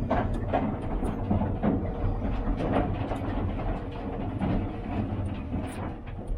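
Volvo L90H wheel loader's diesel engine running, with irregular clattering and knocking of demolition debris being handled.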